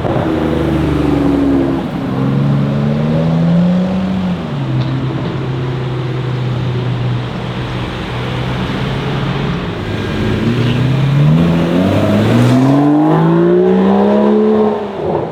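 Aston Martin DBS Superleggera's 5.2-litre twin-turbo V12 under acceleration. The engine note dips, rises and holds steady for several seconds, then climbs for about four seconds before falling off sharply near the end as the throttle is lifted.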